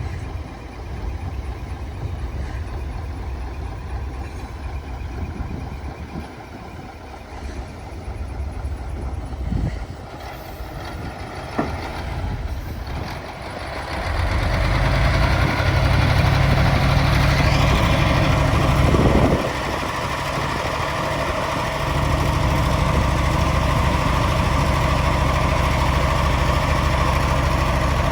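Hyundai dump truck's diesel engine running with a low rumble. It gets much louder about halfway through, dips briefly, then holds a steady, loud run.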